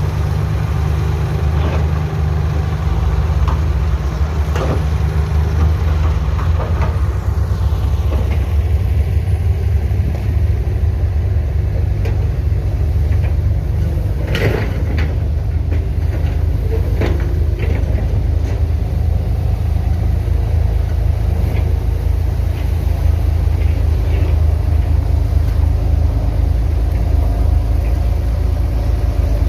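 Heavy diesel engine of construction machinery running steadily, with a few short knocks or clanks about halfway through.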